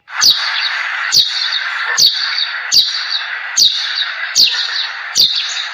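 An animal's short chirping call, repeated seven times at an even pace a little under a second apart, over a steady hiss.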